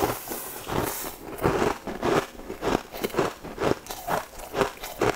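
Close-miked chewing of a crisp, sugar-crusted snack: a steady run of crunches, about two a second.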